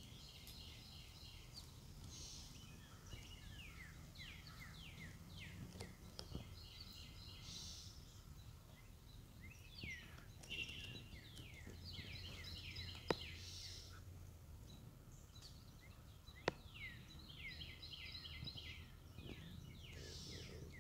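Faint birdsong: phrases of quick falling notes repeating every few seconds over a low steady rumble. Two sharp clicks about thirteen and sixteen seconds in.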